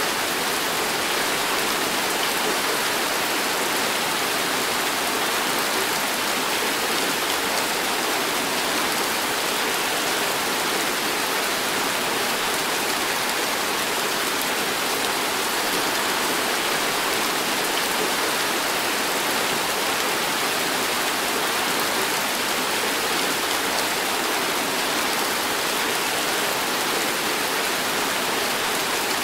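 Heavy tropical rain pouring down steadily, a dense, even hiss.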